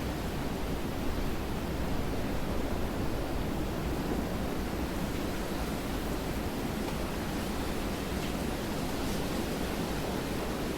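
Steady rain, an even hiss with most of its weight low down and no distinct drops or strikes; it swells slightly two to three seconds in.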